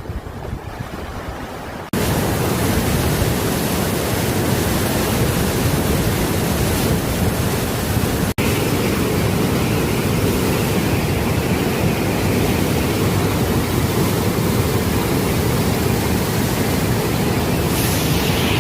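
Loud, steady rushing noise of wind and sea surf. It starts abruptly about two seconds in, after a quieter low rumble, and breaks off for an instant around eight seconds.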